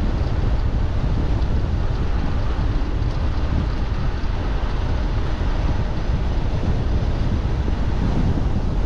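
Wind buffeting the microphone of a camera on a moving e-bike: a steady, loud, low rumbling rush.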